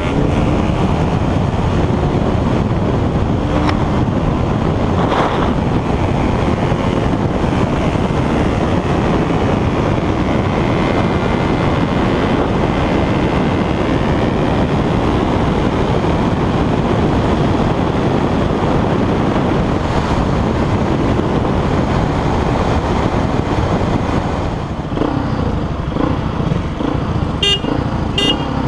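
A 200 cc motorcycle running at steady speed under heavy rushing noise. A vehicle horn gives a few short beeps near the end.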